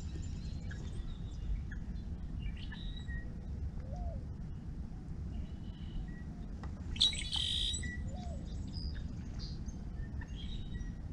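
Wild birds chirping and calling on and off, with one louder, harsher call about seven seconds in, over a steady low background noise.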